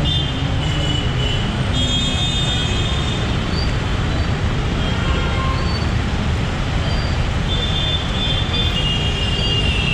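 Yamaha MT-15's 155 cc single-cylinder engine and the surrounding road traffic, a steady low rumble through an action camera's built-in mic. Short high vehicle horn toots sound now and then, more of them near the end.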